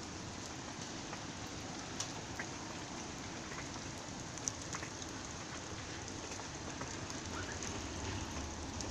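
Steady rain falling, with scattered louder drops striking close by now and then.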